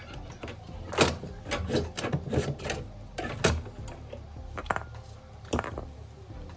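Irregular knocks, clicks and scrapes of tools and parts being handled during repair work on a refrigerator, over a low steady hum. The sharpest knocks come about a second in and about halfway through.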